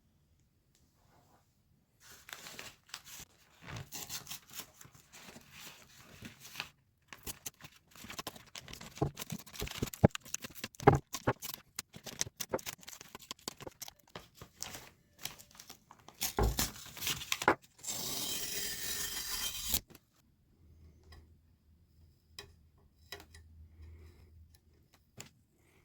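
Irregular crinkling, tearing and clattering handling noises, then a steady spray hiss lasting about two seconds, about three-quarters of the way through, as paint is sprayed onto the bicycle frame.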